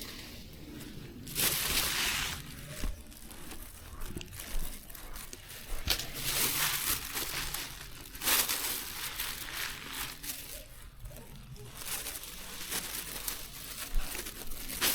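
Plants being torn and rustled by hand in bursts of a second or two, with crackling between them, as when grass and weeds are pulled up.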